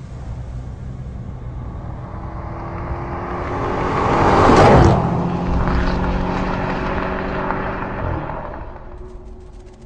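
Audi RS 5 Cabriolet's V8 engine as the car drives past: it builds to its loudest a little under halfway through, then fades away as it moves off.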